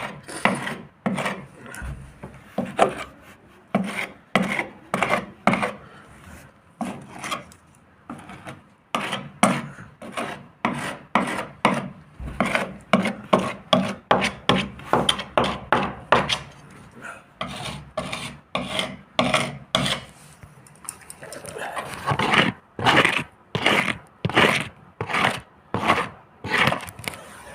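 Boat hull being sanded or rubbed down by hand: a long run of back-and-forth strokes, about two a second.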